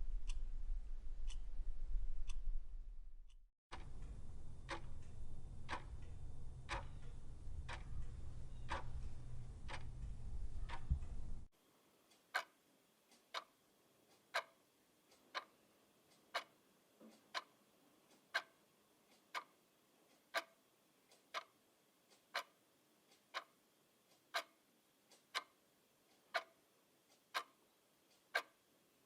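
Clock ticking steadily at about one tick a second. The recording changes twice: at first the ticks sit over a low steady hum, then over a low rumble, and from about twelve seconds in they are clean, with some ticks louder than others.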